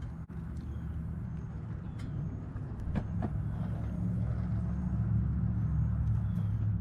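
Low, steady rumble of a vehicle engine running in the background, growing a little louder about three seconds in, with a few light clicks.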